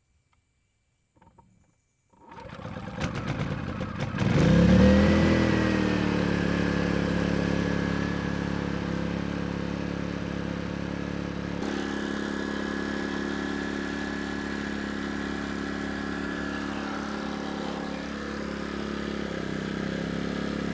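Erayak 4500PD inverter generator starting: about two seconds of cranking, then the engine catches, revs up briefly and settles into steady running. Its engine note steps slightly about twelve seconds in. This is a new engine's first break-in run.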